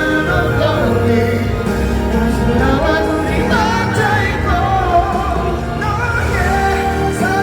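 Live ballad music with singing, played loud and steady through a stadium sound system.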